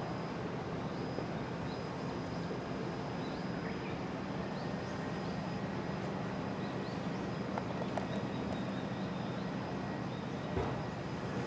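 Steady low mechanical drone, like an engine or machinery running continuously, with a few faint short high chirps over it and a brief knock near the end.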